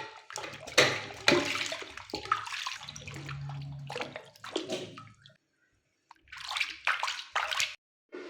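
Water splashing and pouring in irregular bursts, with a low hum under it for about a second midway, broken twice by abrupt silences.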